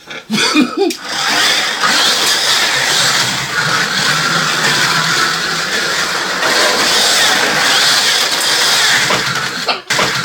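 Small electric motors of 1/43 scale Carrera Go slot cars whining at speed as the cars run around the plastic track. It starts about half a second in and drops out sharply just before the end.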